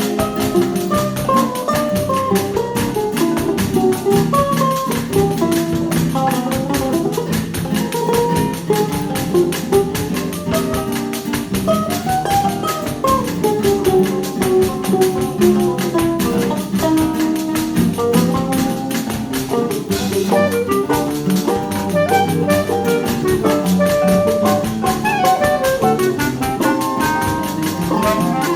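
Instrumental choro played by a small ensemble: a melody line moving up and down over chordal accompaniment and a steady percussion rhythm.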